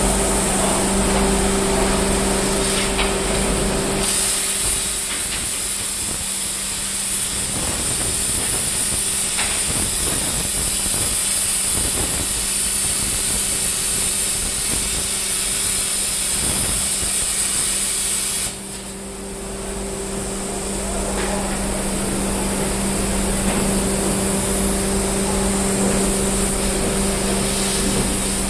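Plasma cutter torch blowing a loud, steady hiss of air and arc as it cuts, over a steady low hum. About two-thirds of the way through, the hiss drops off abruptly for a couple of seconds, then builds back up.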